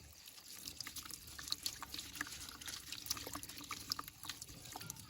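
Water trickling and dripping, with many small scattered clicks and ticks.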